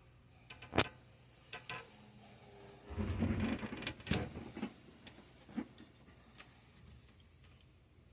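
Handling noise: scattered sharp clicks and taps, with a couple of seconds of rustling and bumping about three seconds in.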